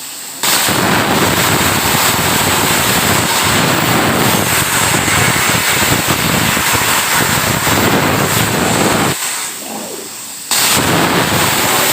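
CNC plasma torch cutting 16 mm mild steel: a loud, steady hiss of the arc that starts abruptly about half a second in, cuts off about nine seconds in, and starts again a second and a half later.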